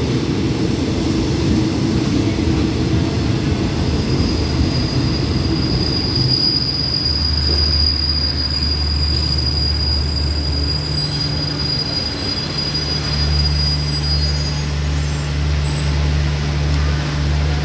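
A passenger train's coaches roll slowly along the platform as it brakes to a stop. One long, high, steady brake squeal from the wheels runs for about ten seconds from a few seconds in. A steady low hum from the train takes over in the second half.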